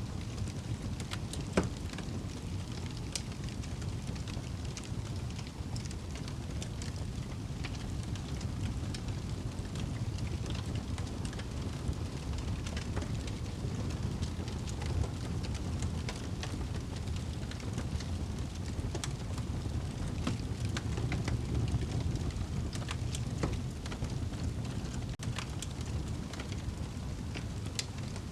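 Wood fire crackling in a fireplace: a steady low rumble of the flames with scattered sharp pops and snaps, one of them louder about a second and a half in.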